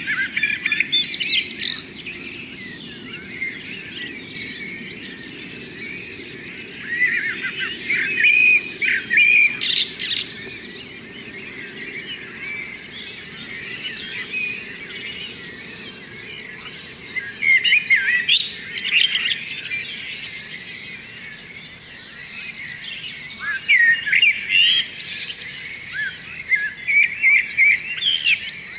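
Songbirds singing in the morning: bursts of quick, high twittering phrases come and go in four spells, with quieter gaps between them. A faint steady low background noise runs underneath.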